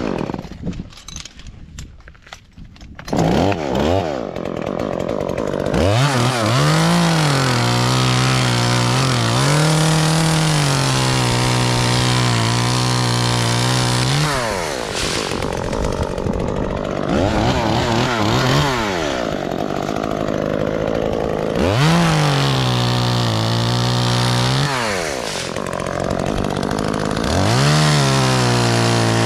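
Two-stroke chainsaw, quiet for the first few seconds, then running loud from about three seconds in. It revs up repeatedly and holds high revs for several seconds at a time, dropping back to a lower speed in between, as it cuts through oak limbs.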